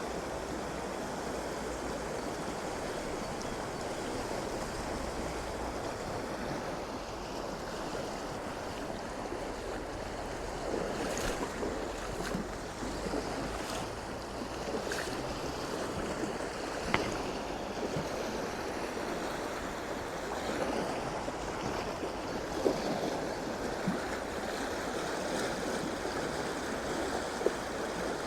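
Shallow stream water running steadily over rocks, an even rushing sound with no letup, broken by a few sharp short taps or clicks.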